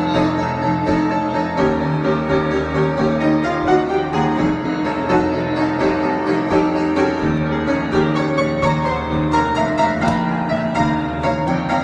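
Solo piano improvisation: a steady flow of notes over held low chords.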